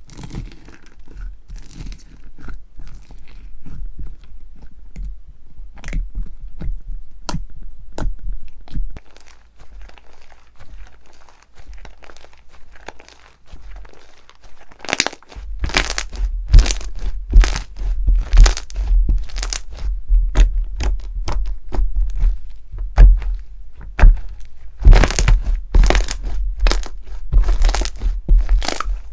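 Slime being squeezed and pressed by hand, making quick crackling clicks and crunchy snaps. The crunching grows louder and denser about halfway through, with low thumps under it.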